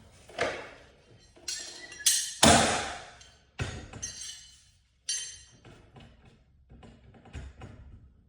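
Metal parts or tools knocking and clinking with a short ring, several separate clanks, the loudest about two and a half seconds in, then fainter taps.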